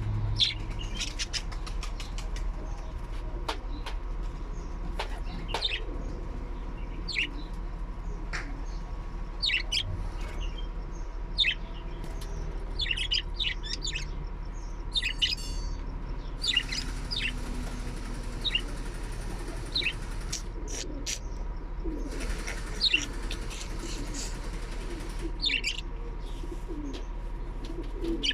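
Small parrots chirping: short, high calls scattered irregularly, several a second at times, over a steady low hum.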